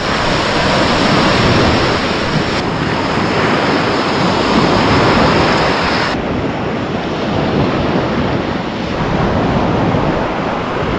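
Waves washing onto a beach in a steady rush, with wind blowing across the microphone.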